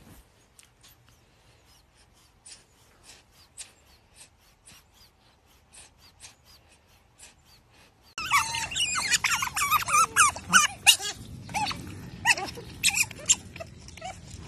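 Faint scattered clicks, then, about eight seconds in, an animal suddenly starts into a run of high, squeaky, wavering whines and yelps, several overlapping, like a dog or puppy.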